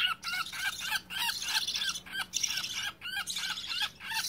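Baby budgerigar chicks whining: rapid short calls repeated about four or five times a second, in runs with brief pauses. These are the distress calls of frightened chicks.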